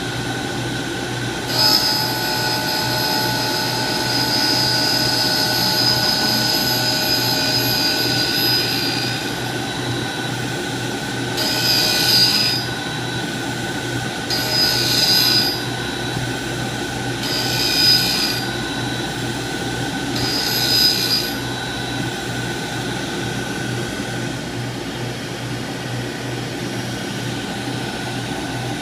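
CNC tool grinder's grinding wheel sharpening the point of a 5/8-inch split-point drill: one long grinding pass, then four short passes about three seconds apart, over the steady hum of the running machine.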